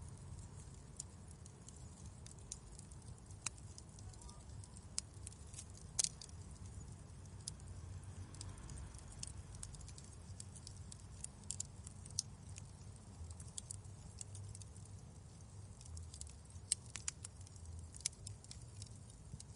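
Wood fire crackling in a fireplace: irregular sharp pops and snaps over a steady low rumble, with a louder pop about six seconds in and another near the end.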